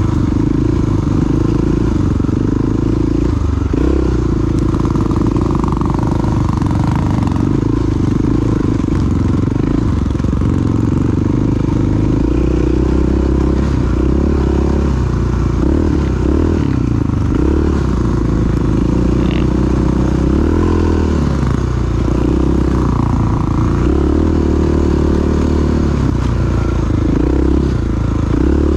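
Single-cylinder four-stroke dual-sport motorcycle engine running while the bike is ridden, its pitch rising and falling with the throttle.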